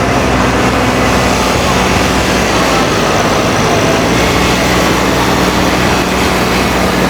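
A steady motor hum with the chatter of a crowd underneath.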